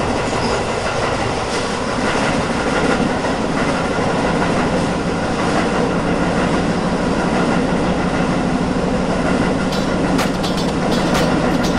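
Electric commuter train running steadily, wheels rumbling on the rails as heard from the front of the train, with a quick run of sharp clicks near the end.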